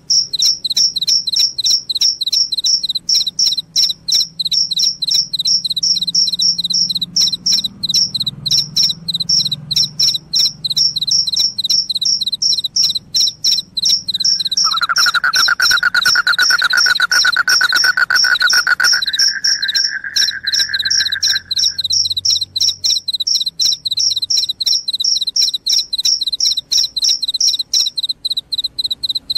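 Field crickets chirping shrilly in fast, regular high-pitched pulses. About halfway through, a second, lower-pitched continuous trill joins for about seven seconds, rising slightly at first and then holding steady.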